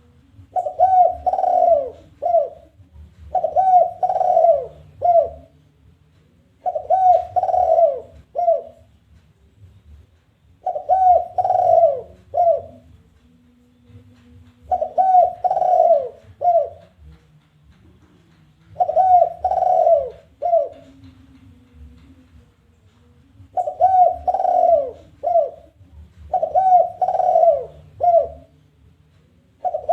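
Spotted dove (tekukur) giving its challenging call: a phrase of a few coos ending in a short separate coo, repeated about every four seconds. This is the territorial challenge call used as lure audio to draw wild doves.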